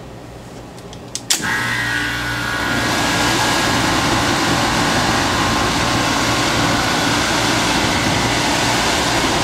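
HVAC blower switching on with a click, its freshly cleaned blower wheel spinning up so the rush of air builds over a second or two, then runs steadily. This is the test run after reinstalling the cleaned wheel and housing.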